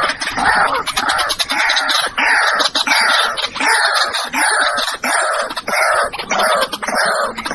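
White-breasted waterhen calling over and over, loud, rough calls repeated about twice a second, each one dropping in pitch.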